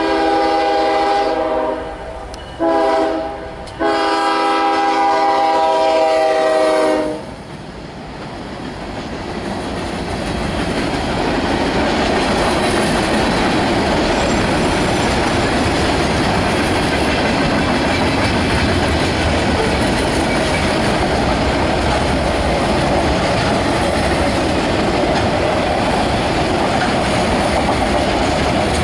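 Norfolk Southern freight locomotive's air horn sounding a long blast, a short one and a final long one for the grade crossing. The train then passes: the rumble and clatter of freight-car wheels on the rails grows over about four seconds and runs steadily as gondolas and autorack cars roll by.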